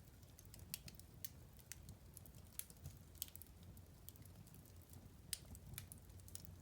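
Wood fire crackling in a fireplace: irregular quick snaps and pops, played quietly over a soft low rumble.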